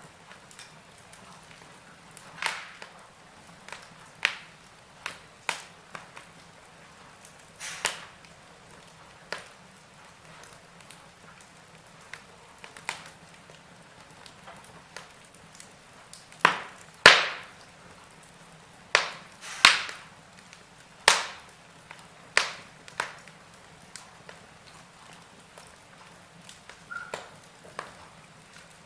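Wood fire in a fireplace crackling: sharp, irregular pops and snaps over a faint steady hiss, with a run of louder pops a little past halfway.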